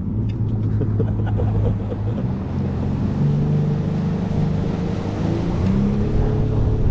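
Motorboat engine running under way, with rushing water and air noise. Its pitch shifts up a little in the middle.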